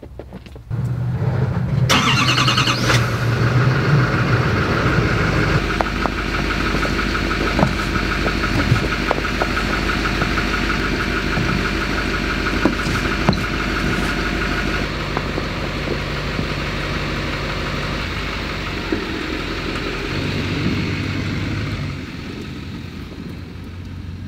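A vehicle engine starts about a second in and then runs steadily.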